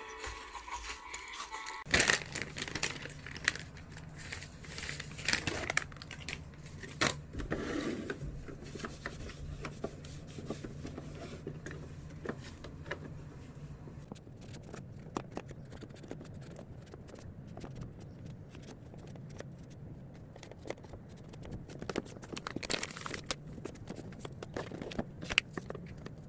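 Irregular crinkling and rustling with many sharp clicks, like things being handled, over a steady low hum.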